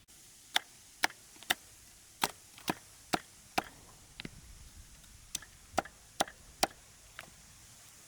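Wood being chopped: a run of sharp strikes at about two a second, a short pause, then a second run.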